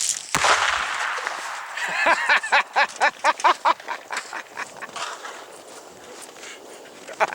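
A rifle shot cracks, and about half a second later 7 lb of binary exploding target packed in an old washing machine goes off in a heavy blast with a deep rumble that slowly dies away. A quick run of short pitched bursts, about six a second, follows a couple of seconds in, and two sharp cracks come near the end.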